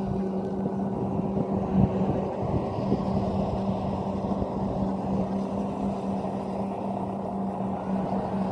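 Rice combine harvester running steadily at work, its engine and machinery giving a constant drone.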